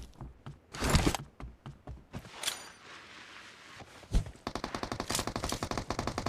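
Video-game gunfire: a few separate shots in the first half, then a sustained burst of automatic fire at about ten rounds a second from a little past halfway.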